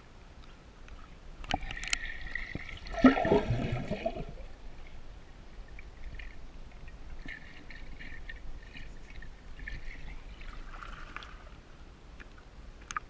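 Water splashing and gurgling, with a louder splash about three seconds in and softer trickling and dabbling after it.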